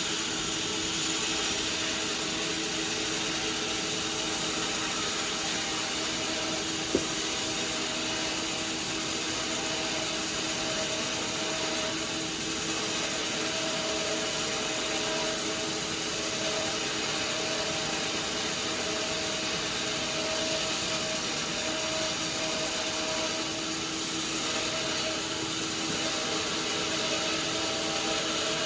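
Sawmill machinery running steadily with a constant hum and high whine, with a single sharp click about seven seconds in.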